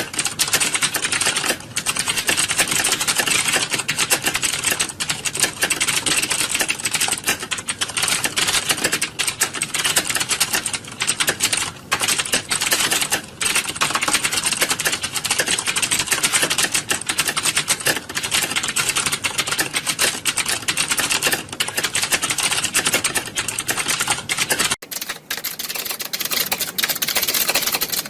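Many computer keyboards being typed on at once, a dense, continuous clatter of key clicks. Near the end the low rumble underneath drops away while the clacking goes on.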